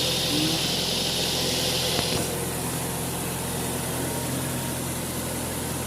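Car engine idling steadily, whose owner complains of a high idle and a jerking misfire. A steady hiss over the engine cuts off suddenly about two seconds in.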